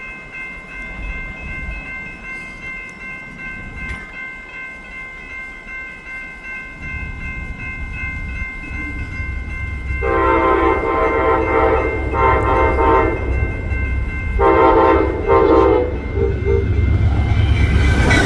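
Amtrak passenger train led by a GE P42DC locomotive approaching fast, its rumble building from about seven seconds in. The locomotive sounds its horn in blasts from about ten seconds in: a long one, a shorter one, another long one, then two quick toots. A steady high ringing runs under it until near the end.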